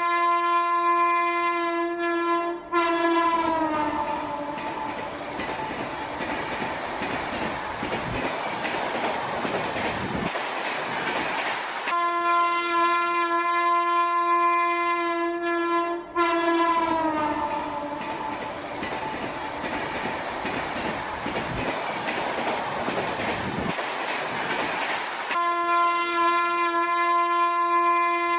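Train horn sounding a long steady chord that drops in pitch as the train passes, followed by the rumble and clatter of the passing train. The pass-by happens twice, and the horn starts again near the end.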